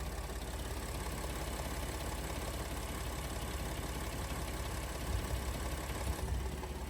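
2014 Ford F-150's 3.5-litre EcoBoost twin-turbo V6 idling steadily, with a few low thumps in the last two seconds.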